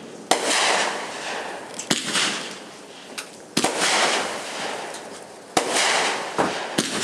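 Fireworks going off: five sharp bangs, about one every one and a half to two seconds, each followed by a second or so of fading crackling hiss.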